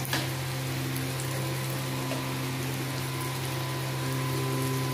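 Rohu fish pieces sizzling steadily as they shallow-fry in oil in a pan, over a steady low hum. A brief knock sounds just at the start.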